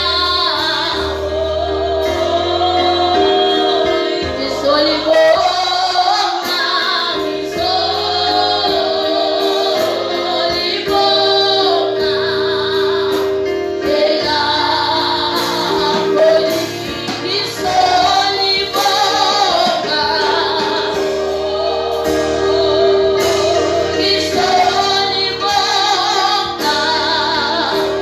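Gospel music: singing led by a female voice with other voices joining, over sustained keyboard chords and a steady beat.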